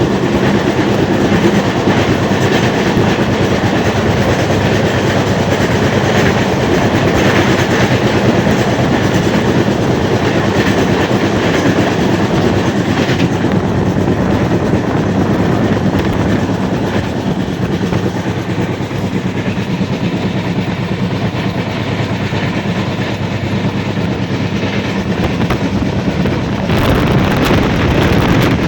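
Train running on the tracks, a loud steady rumble and rattle that changes in tone about halfway through and again near the end.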